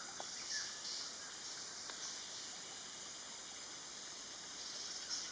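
Steady high-pitched drone of insects, with a few faint short bird chirps.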